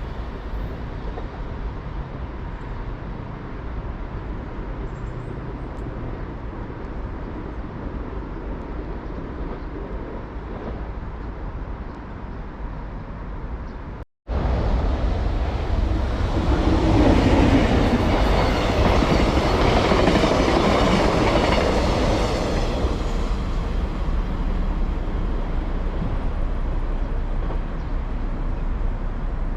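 Train running along the rails with a steady rumble; after an abrupt cut about halfway, a louder train pass with wheels clattering over the track builds, peaks a few seconds later and slowly fades.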